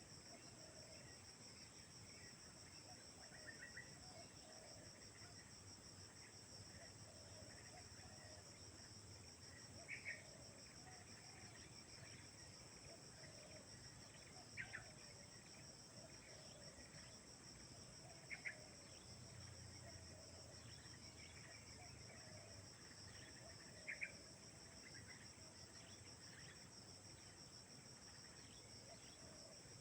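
Faint, steady chorus of crickets or other night insects, high and continuous, with a few short high chirps every four to six seconds.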